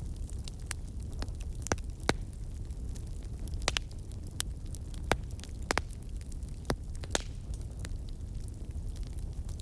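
Fire crackling: a steady low rumble of burning with irregular sharp pops, about one every second or so, the loudest near two seconds in.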